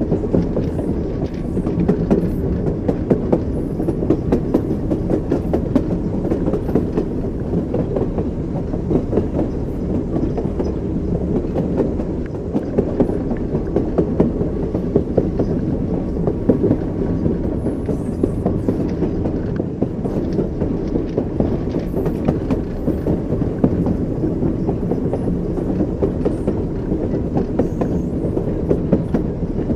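Train wheels clicking over rail joints with a steady low rumble, the clickety-clack of a moving train.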